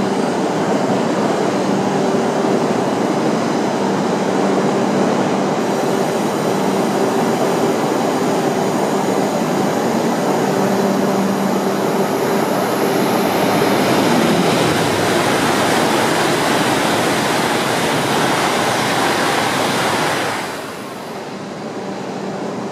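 E5 series Shinkansen train running along the platform: a steady rush of rail and air noise with a low motor hum. The sound drops off sharply about twenty seconds in.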